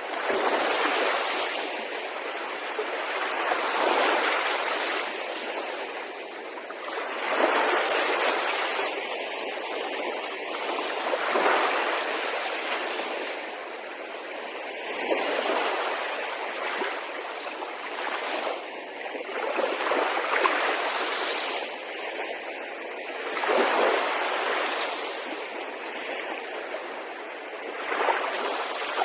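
Sea waves washing onto the shore, the rush of surf swelling and falling back every few seconds.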